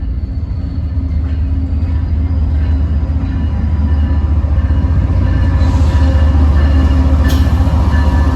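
Approaching diesel-led freight train: a deep, steady rumble of the locomotive and train growing louder as it nears, with one sharp click about seven seconds in.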